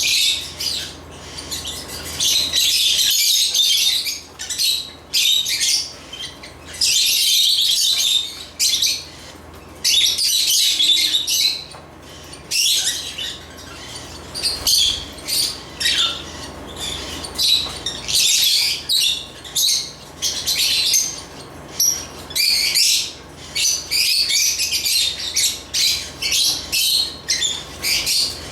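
African lovebirds chattering: fast, high-pitched chirps and squawks in bouts of about a second, with short pauses between, over a faint low hum.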